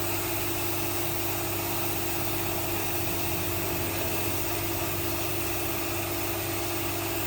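Steady hum of a running motor or machine, unchanging, with a constant low drone and a high hiss.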